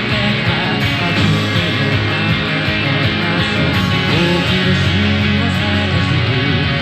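Gibson Les Paul Special electric guitar playing a rock song part, heard through a small speaker picked up by a microphone. The music runs loud and steady without a break.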